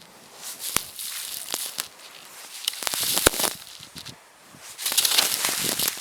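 Deep, frozen snow crunching and squeaking under pressure at −30°C or colder, in three bursts about two seconds apart, each full of sharp crackles.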